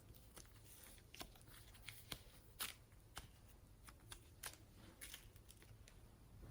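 Faint slime being worked by hand: irregular sticky clicks and crackles, with a few sharper pops about two and a half seconds and four and a half seconds in.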